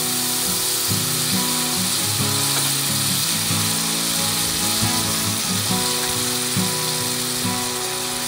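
Food frying in a large steel wok, a steady hissing sizzle, over background music with a steady rhythm.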